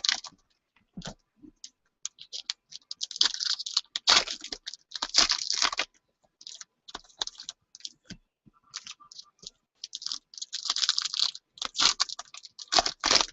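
Trading-card packaging and cards being handled: crinkly rustling and sharp clicks in irregular bursts, as a hobby box and its foil packs are worked open.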